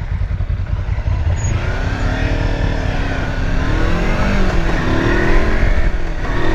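Motorcycle engines revving, rising and falling in pitch from about two seconds in and getting louder, over a heavy low rumble.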